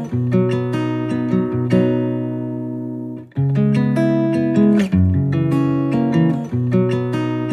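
Background music: acoustic guitar picking a repeating melody, the notes ringing out and fading, with a short break about three seconds in before the phrase starts again.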